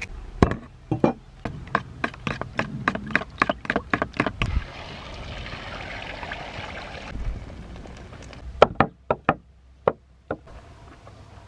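A quick run of sharp knocks, about four a second, then a few seconds of running water, then a handful of separate louder knocks.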